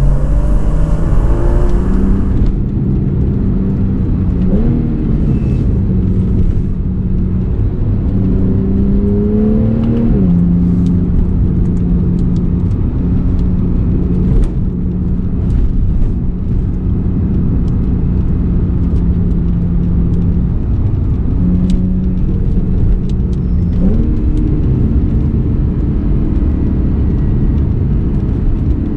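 Porsche 911 engine and exhaust under way at steady revs, the pitch climbing under acceleration and dropping at gear changes a few times, over a constant road and wind rumble.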